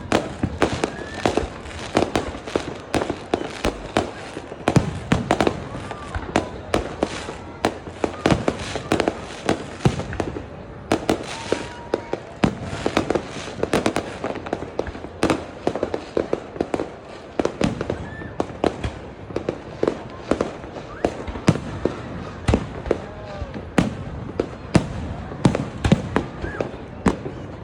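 Fireworks display: a continuous barrage of sharp bangs and crackles, several a second, without a pause.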